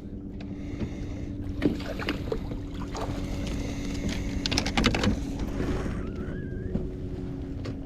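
Handling noises on a fishing kayak: scattered knocks and clicks over a steady low hum, with a short wavering squeak about six seconds in.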